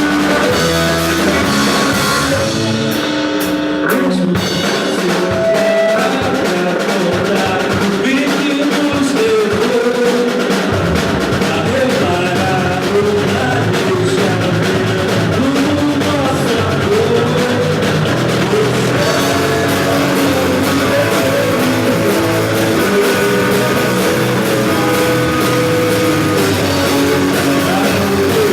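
Live rock band playing a song: electric guitar and drum kit with a sung vocal line. The low bottom end fills in about eleven seconds in.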